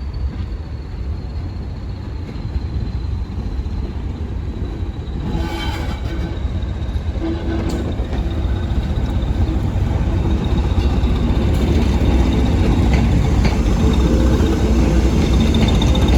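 Train approaching and running past a level crossing: a low rumble that grows steadily louder, with the clicks of wheels over the rails starting about five seconds in.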